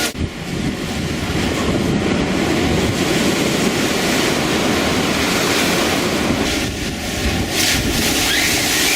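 Storm wind buffeting the microphone over heavy sea waves, a dense steady rush of noise with a brief dip just after the start.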